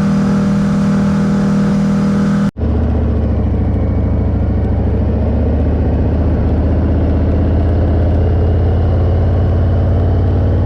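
Harley-Davidson Heritage Classic 114's Milwaukee-Eight V-twin engine running steadily at road speed, with wind and road hiss. About two and a half seconds in, the sound cuts out for an instant and comes back with a deeper, lower engine note.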